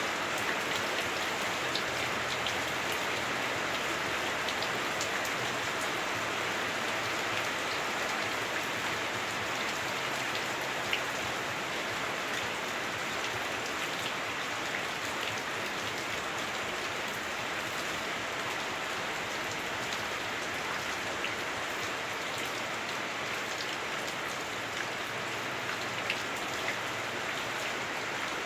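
Heavy rain on a house roof heard from indoors, a steady dense hiss with scattered individual drop ticks.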